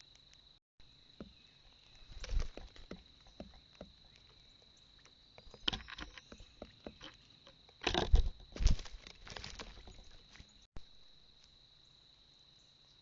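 Birds landing on and pecking at a smart bird feeder right by its microphone: irregular taps and scuffs in small clusters, the loudest about eight seconds in, over a steady high tone.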